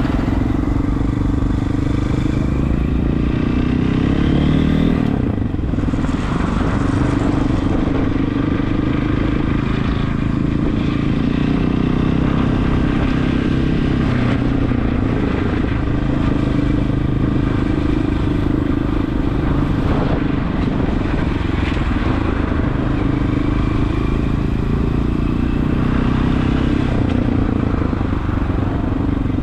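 Regulmoto TE enduro motorcycle's single-cylinder engine running steadily while riding, its pitch rising as it accelerates a few seconds in and again near the end.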